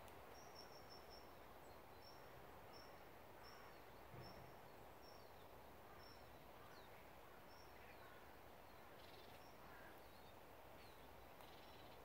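Faint forest ambience: a steady low hiss with a small bird repeating a short thin high note about once or twice a second, and a few faint downward-sliding chirps.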